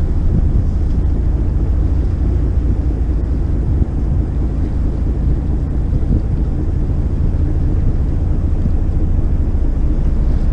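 Steady wind buffeting the microphone over the low rumble of a motor yacht under way, with water rushing past the hull.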